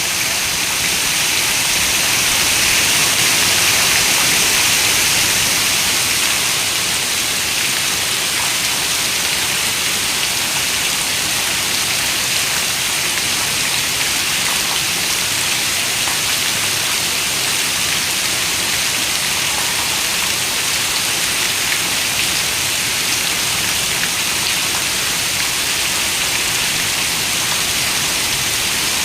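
Heavy rain falling on a window: a steady, dense hiss of drops that swells slightly a few seconds in.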